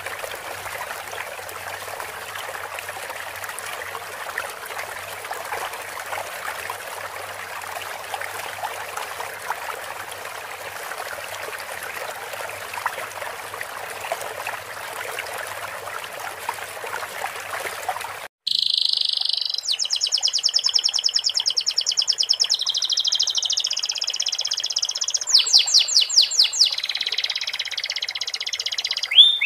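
Steady trickling running water for about eighteen seconds, then a sudden cut to a domestic canary singing. The canary sings fast trills and rapidly repeated notes, a song filled in with the calls of the sikatan londo flycatcher.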